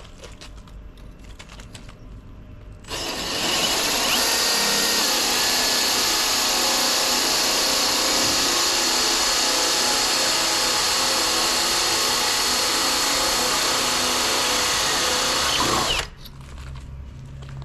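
Power drill boring into a brick wall, running steadily for about thirteen seconds. It starts about three seconds in and stops abruptly near the end.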